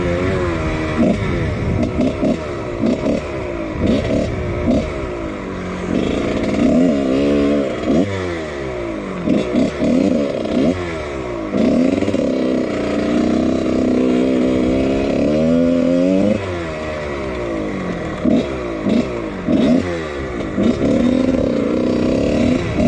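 Husqvarna CR125 two-stroke single-cylinder dirt bike engine being ridden hard, revving up and dropping off again and again as the rider works the throttle and gears.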